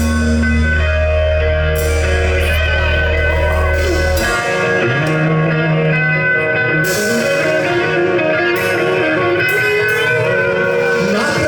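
Rock band playing, led by guitar, over a heavy low bass note that drops out about four seconds in.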